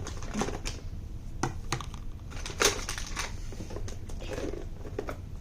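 Fingernails picking and scratching at the plastic wrap on a small package, making irregular clicks and taps, the loudest a little after halfway.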